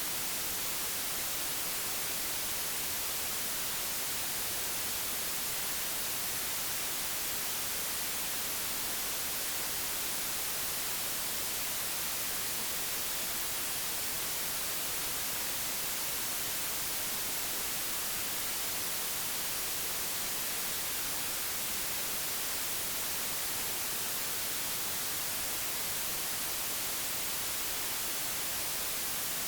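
Digitally generated white noise: a steady, unchanging hiss, strongest in the high frequencies.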